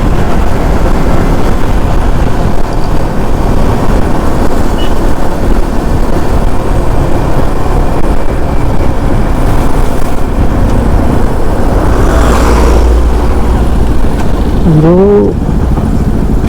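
Motorcycle riding at road speed: a steady rush of wind on the microphone with engine and road noise underneath, and a brief hiss about three-quarters of the way through. A short voiced sound comes near the end.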